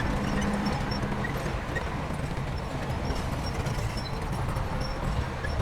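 Crawler bulldozer working, a rapid clatter of steel tracks over a steady diesel engine drone.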